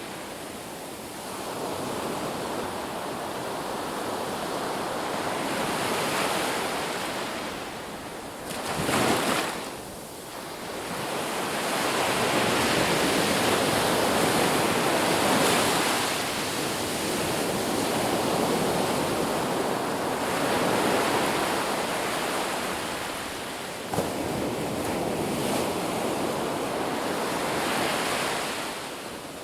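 Ocean surf on a beach: waves breaking and washing in, a steady rush that swells and ebbs every few seconds, with one sharper, louder surge about nine seconds in.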